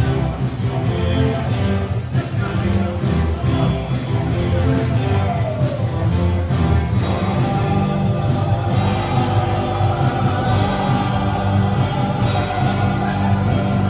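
Live rock band playing, with singing and a steady drum beat.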